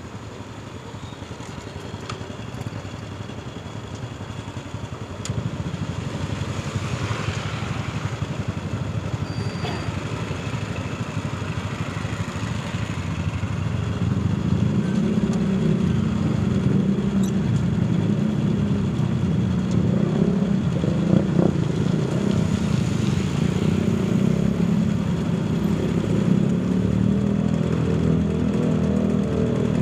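Diesel-electric locomotive CSR-5115 approaching with a freight train. Its engine rumble grows steadily louder and turns into a strong, deep drone from about halfway through.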